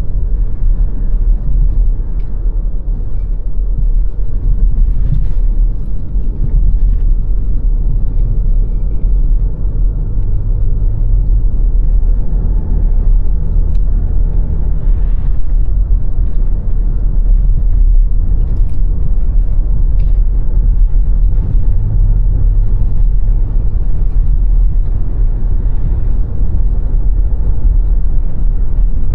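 A car driving steadily along a road: a continuous low rumble of engine and tyre noise, with a few faint ticks now and then.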